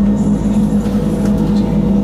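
Electric rack-railway train of the Wengernalpbahn running, heard inside the carriage: a steady hum with a strong low tone and no breaks.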